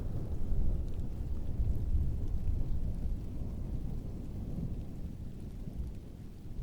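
Distant thunder rumbling low over steady rainfall. The rumble is heaviest in the first few seconds and eases off toward the end, with faint patter of raindrops above it.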